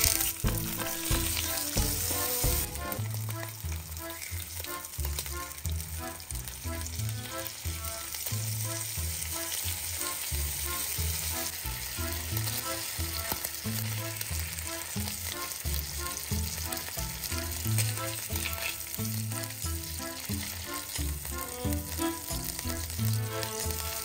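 Slices of boiled beef tongue sizzling as they fry in oil in a non-stick pan. The sizzle is loudest in the first few seconds as the slices go into the hot oil, then settles to a steady hiss.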